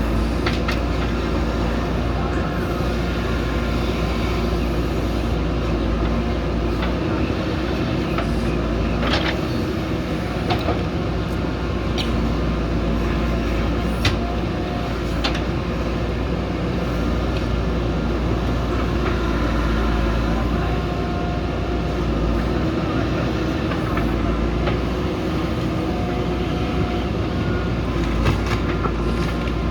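JCB backhoe loader's diesel engine running steadily under work, with a few short sharp knocks about a third and halfway through.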